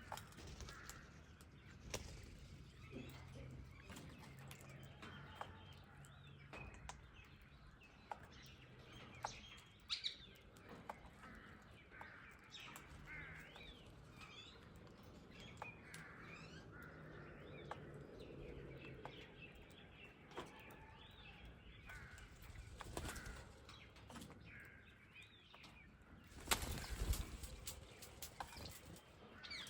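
Sparrows and parrots chirping in many short, quick calls, with a louder burst of wing flapping near the end.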